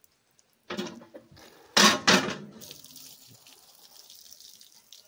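Borewell hand pump worked by hand: two loud strokes about a second apart, then water running out with a steady hiss.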